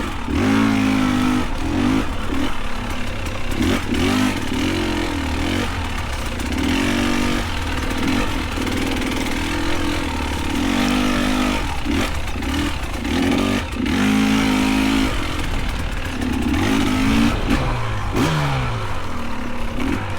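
Dirt bike engine revving in repeated short throttle bursts, rising and falling every second or two over a steady low running note, with occasional knocks from the bike clattering over rough ground.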